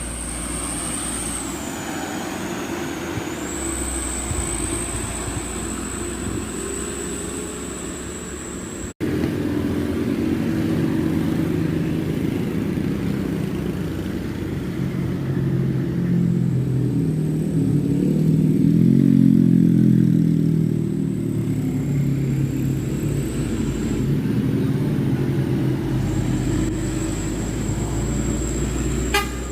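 Truck engine running, its note swelling and falling back in the middle, with an abrupt cut about nine seconds in. A thin high whine runs over it much of the time.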